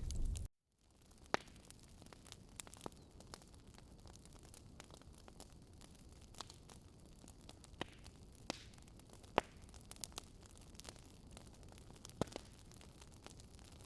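Fire crackling: a faint steady hiss with sharp pops and crackles at irregular intervals. A louder low rumble cuts off abruptly in the first half second.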